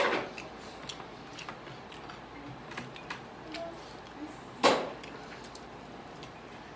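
Close-up eating sounds of grilled chicken being chewed and picked apart by hand: many small sticky mouth and finger clicks, with two louder wet smacks, one at the start and one about two-thirds through.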